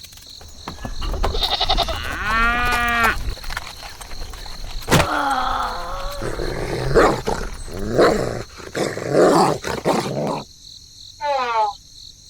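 Several short pitched animal-like calls, with a clear one about two seconds in and more between five and ten seconds, then a quick falling pitched glide near the end, over a steady high tone.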